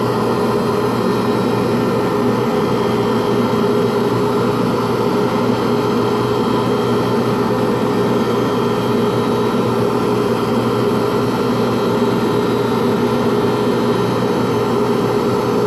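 Lathe motor running at a steady speed with a constant hum, spinning the pen blank while it is sanded through the fine grits.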